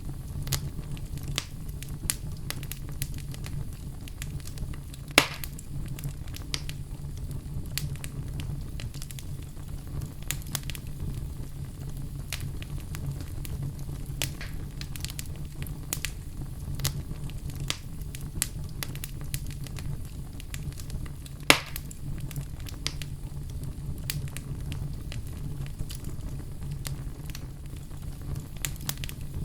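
Wood fire crackling, with many small scattered pops and two louder sharp snaps, about five seconds in and again about twenty-one seconds in, over a low steady rumble.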